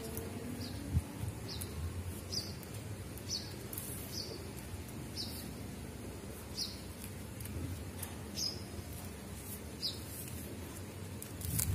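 A bird repeating a short, high chirp that falls in pitch, about once a second, over faint rustling and a few light clicks from plastic craft wire being handled and woven.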